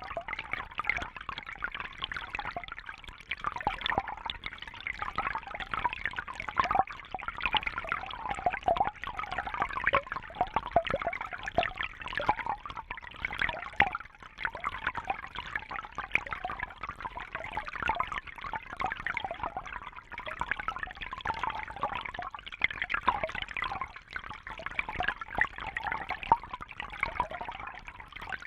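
Fish tank water trickling and bubbling steadily, a dense run of small splashes and gurgles.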